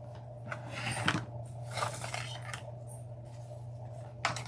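Scissors snipping through ribbon a few times, with rustling of the ribbon in between, over a low steady hum.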